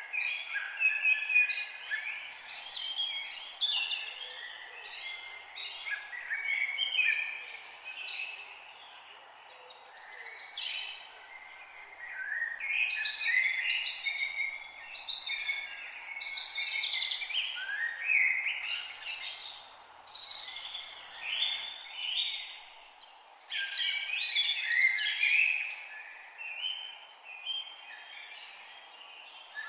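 Songbirds singing: phrases of quick, changing high notes a few seconds long, with short pauses between them, over a steady faint background hiss.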